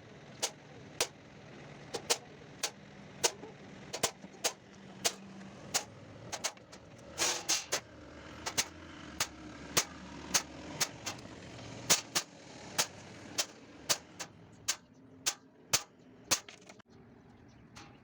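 A hammer tapping a center punch into a sheet-metal floor pan, marking the endpoints of the beading lines: a steady run of sharp metallic taps, about two a second, that stops shortly before the end.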